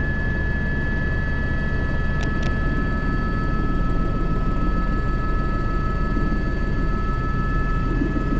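Airbus H125 helicopter in flight heard from the cockpit: the single turboshaft engine and rotor running steadily, a constant drone with a steady high-pitched whine. Two faint clicks come about two seconds in.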